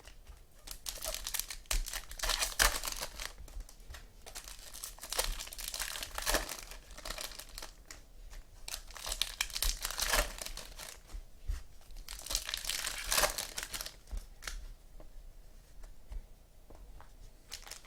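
Wrappers of 2015 Topps Platinum Football trading-card packs being torn open and crinkled, in irregular bursts of rustling.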